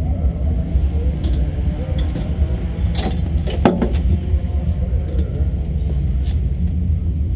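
Four-cylinder race car's engine idling, a steady low rumble heard from inside the car, with two sharp knocks around the middle.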